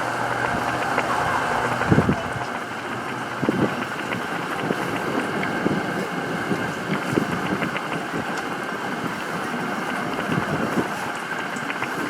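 Steady rain falling, a continuous hiss with scattered drips, and a couple of brief louder knocks in the first few seconds.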